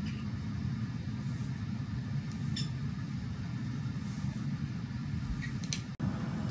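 A steady low hum, with two faint, short high chirps, about two and a half seconds in and again near the end, such as a pet parrot's soft chirps.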